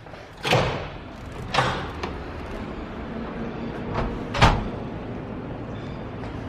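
Construction-site banging: three loud, sharp bangs, the first two about a second apart and the third near the end, with a couple of fainter knocks between them, over a steady low rumble.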